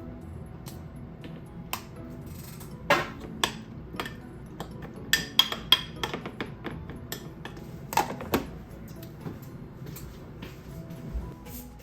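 Dishes and utensils being handled: a string of sharp clinks and knocks, loudest about three, five to six and eight seconds in, over quiet background music.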